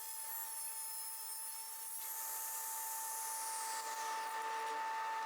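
Table saw with its blade tilted to 45 degrees cutting a glued strip of hardwood: a steady whine with a high hiss from the cut, which fades out about four seconds in.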